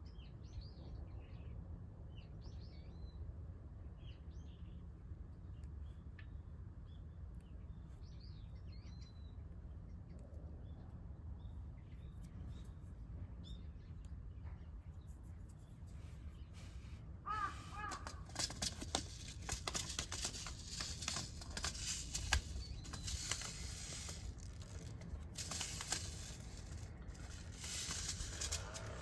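Birds calling: short high chirps over a steady low hum. About halfway through, a dense run of clicking, rustling noise takes over, with one brief lower call.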